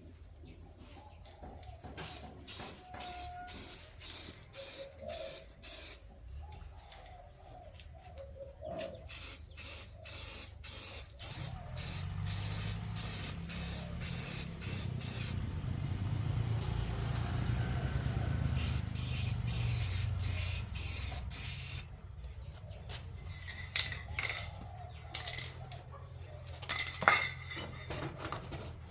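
Short repeated bursts of spraying, roughly one a second, in several runs. A low steady hum runs under them through the middle, and there are a couple of sharp knocks near the end.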